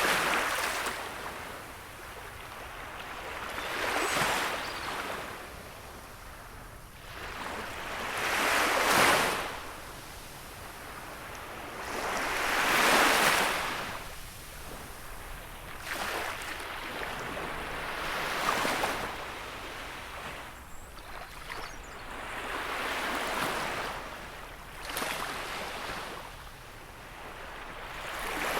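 Gentle sea waves breaking on the shore, a rushing wash that swells and fades every four seconds or so, the biggest breaks coming about a third of the way in.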